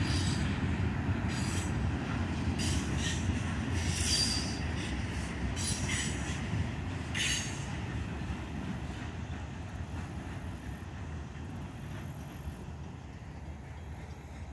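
Freight train boxcars rolling past with a steady low rumble of wheels on rail. Several brief high wheel squeals come in the first half. The rumble fades as the last cars go by.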